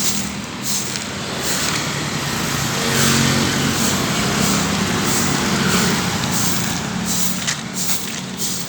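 A motor vehicle's engine running close by, a steady hum with road noise, rising a little in the middle.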